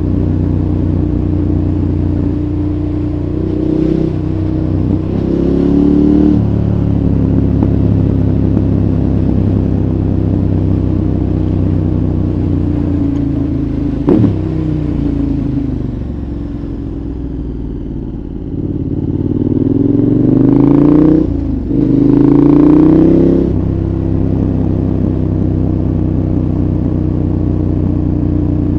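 2014 KTM 1190 Adventure's V-twin engine through a Giannelli exhaust with its dB killer fitted, running at a steady engine speed, revving up briefly about 4–6 seconds in and twice more about two-thirds of the way through with a short break between the rises, like a gear change. A single sharp click about halfway through.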